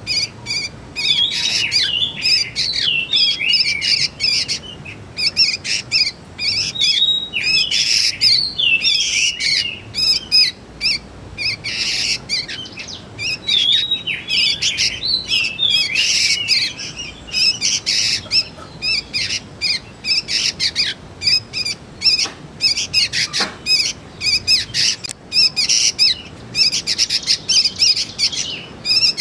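Young sooty-headed bulbuls (kutilang) calling: a dense, unbroken run of short chirps and quick up-and-down notes.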